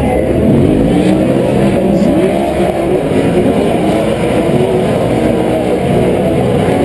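Several Pro 4 four-wheel-drive short-course off-road race trucks racing, their engines overlapping as they rev up and down through the turns.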